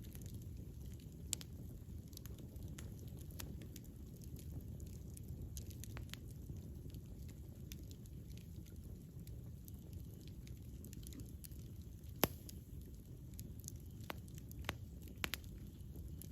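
Wood campfire burning with a steady low rumble and scattered sharp crackles and pops, the loudest pop about twelve seconds in.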